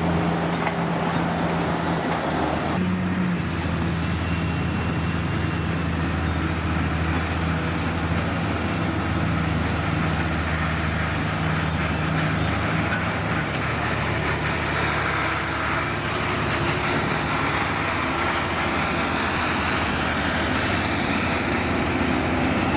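Heavy diesel engine of a historic truck or construction machine running steadily, with a sudden change in its sound about three seconds in.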